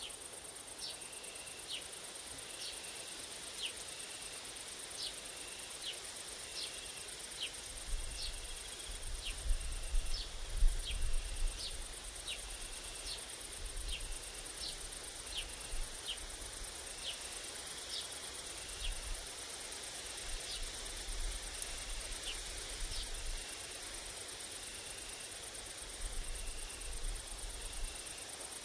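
Grasshoppers and crickets stridulating in a steady high chorus, with a bird repeating short sharp calls about once a second. Gusts of wind rumble on the microphone, loudest about ten seconds in and again through the second half.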